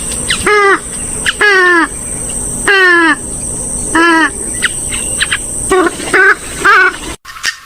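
A rail-family waterbird such as a swamphen or moorhen giving loud, harsh, repeated calls. There are about seven notes, each sliding down in pitch, some in quick pairs. The calls stop abruptly about seven seconds in.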